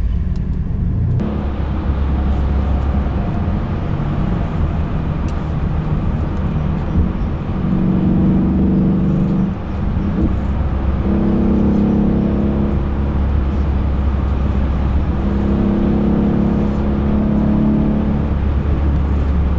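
Mercedes E63 AMG's twin-turbo V8 running under way, heard inside the cabin with steady low road rumble. Its engine note comes up more strongly three times.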